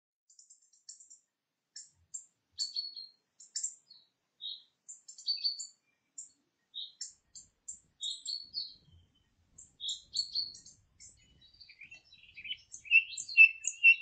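Small songbirds chirping and singing in short, high, scattered calls, with a quicker run of repeated notes near the end.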